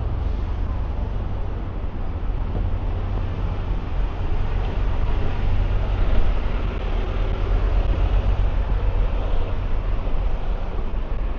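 Steady city street traffic: passing vehicles make a continuous wash of noise over a strong, deep rumble, swelling a little midway.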